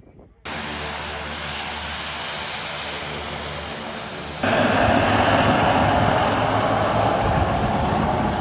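Propeller aircraft engines running with a steady hum that starts abruptly. About four seconds in it jumps suddenly to a much louder, fuller roar of engine and propeller noise.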